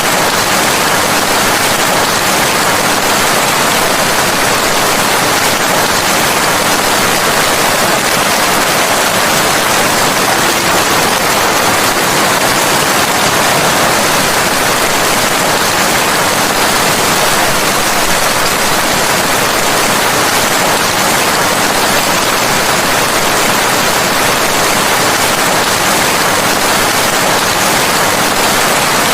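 Steady, dense rainfall: an even, unbroken hiss of heavy rain with no distinct drips or thunder.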